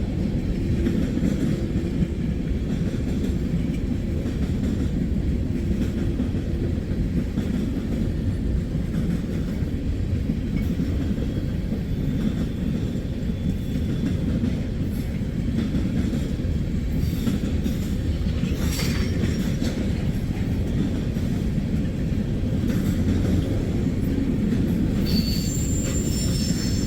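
Freight train cars rolling past with a steady heavy rumble of steel wheels on rail. Near the end a high wheel squeal rings out.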